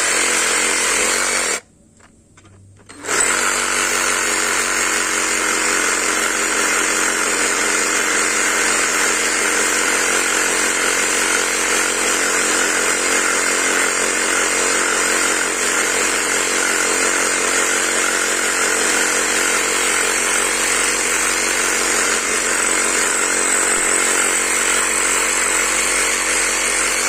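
Cordless electric saw cutting wood, its motor running steadily with a constant whine. It stops briefly about a second and a half in, starts again, and cuts off at the end.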